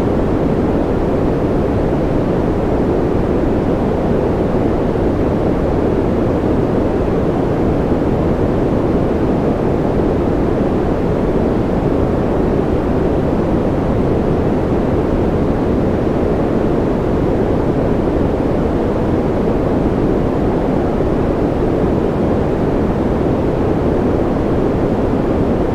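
Steady generated white noise: an even, unbroken rush that is strongest in the low and middle range and fades toward the top. It does not change at all.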